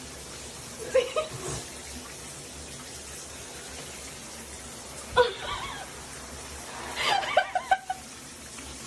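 A person laughing in short bursts, three times, the last a quick run of snickers, over a steady background hiss.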